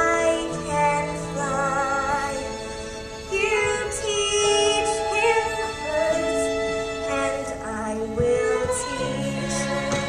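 Music: a woman's voice singing held notes with vibrato over a sustained instrumental accompaniment.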